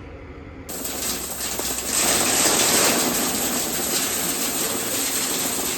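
Steady, dense machinery noise that starts abruptly about a second in and gets louder about two seconds in.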